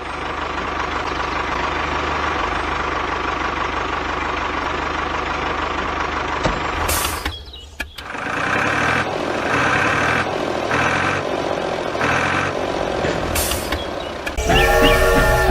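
A vehicle engine running steadily, then a regular repeating beep like a reversing alarm from about eight seconds in. Pitched tones come in near the end.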